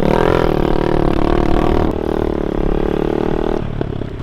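Small pit bike engine running at high revs, its note rising slightly at first and then holding steady before dropping away about three and a half seconds in.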